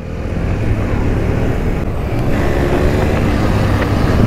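KTM Duke 250's single-cylinder engine running as the motorcycle is ridden, growing louder over the first second or so and then holding steady, with wind rushing over the microphone.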